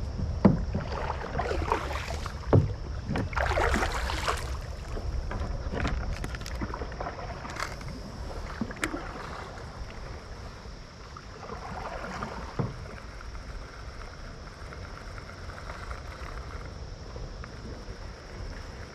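Kayak on the water: water splashing and a few knocks against the hull in the first half, then quieter water sounds.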